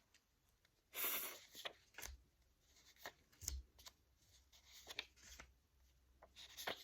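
Phonics flashcards being handled: a card slid back into the pack and the cards shuffled. The result is a series of faint papery scrapes and taps, the biggest about a second in.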